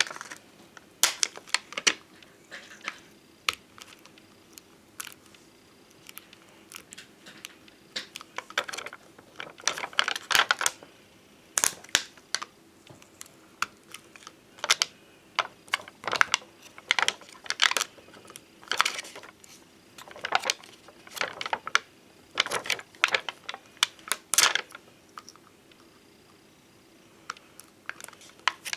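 Bonbon drop and ohajiki stickers, thick glossy domed stickers, being tapped and handled: irregular light clicks and taps, sometimes in quick clusters, with a quieter stretch near the end.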